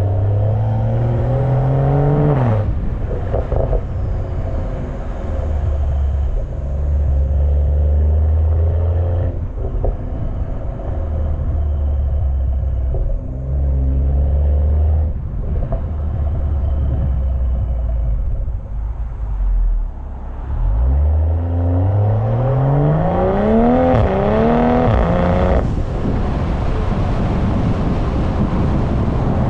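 BMW M340i's turbocharged inline-six exhaust heard from the rear of the car: the engine pulls with climbing revs for the first couple of seconds, settles into a low cruising drone, then accelerates hard again from about two-thirds in, revs rising until they cut off suddenly near the end. Wind rushes over the microphone throughout.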